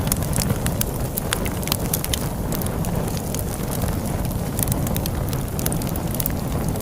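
Log fire crackling with many sharp little pops and snaps, over a steady low rumble of storm wind.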